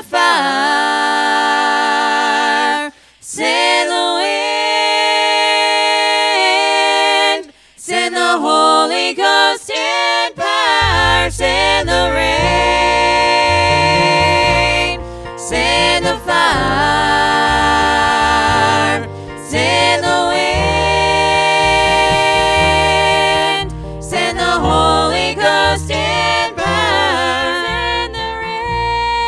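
Gospel singing, voices in harmony holding long notes with vibrato, at first with nothing low beneath them. About eleven seconds in, a pulsing bass line comes in under the singing.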